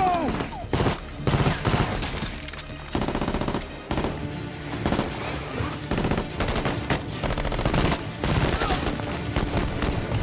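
Movie gunfight sound: dense, rapid automatic gunfire in sustained overlapping bursts, over a film score.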